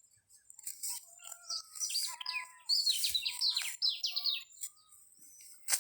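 A small bird singing a rapid run of high chirps that sweep downward, with a sharp click just before the end.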